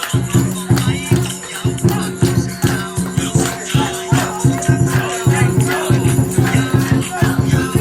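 Ceremonial ritual music with a fast, steady beat and rattling percussion, with voices wavering over it.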